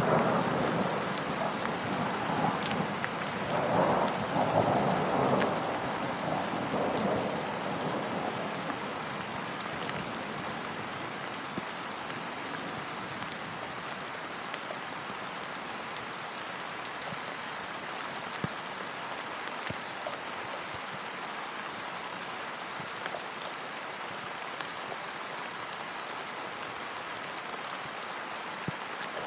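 Steady rain falling on a lake's surface, with thunder rumbling through the first several seconds and fading away. After that only the even hiss of rain remains, with scattered single drop hits.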